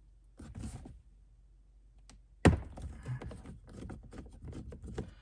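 A tight 7 mm bolt holding plastic trim breaks loose with a single sharp crack about halfway through, followed by a run of small clicks as it is turned out.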